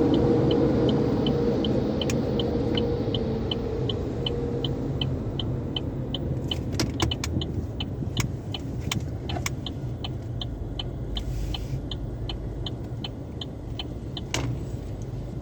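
Low, steady rumble of a car in a car wash tunnel, slowly fading. Over it runs an even, high ticking about two and a half times a second, with a few sharp clicks in the second half.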